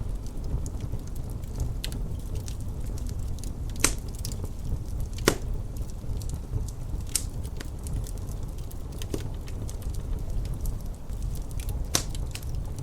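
Wood fire crackling in a fireplace, with scattered sharp pops, the loudest about four and five seconds in and again near the end, over a steady low rumble of wind.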